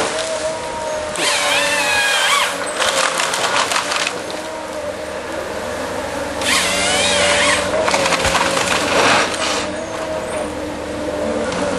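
Tree harvester at work: its engine runs steadily while the head's saw cuts twice, about five seconds apart, each cut a second or so of wavering saw whine, with crackling and splintering of wood as the log is fed through between cuts.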